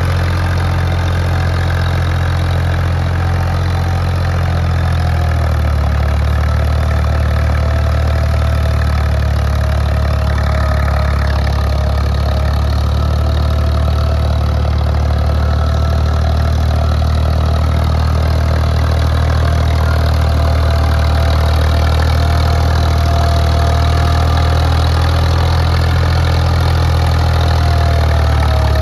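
Ford 3610 tractor's three-cylinder diesel engine running steadily under heavy load while pulling a loaded sugarcane trailer. About five seconds in its low note shifts and it grows slightly louder.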